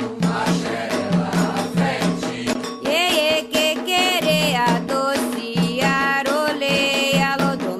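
Candomblé ritual music: voices singing a chant for the orixás over drums and a rattle keeping a quick, steady beat.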